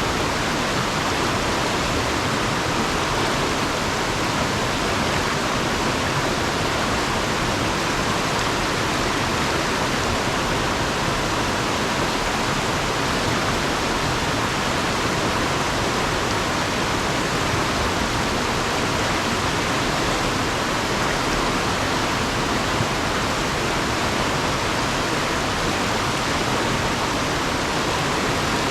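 Fast river water rushing over and around rocks: a steady, even rush with no letup.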